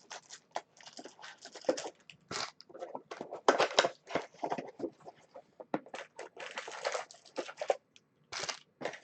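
Baseball card packaging being handled and torn open: irregular crinkling, crackling and tearing of pack wrappers and box packaging, with quick rustles throughout.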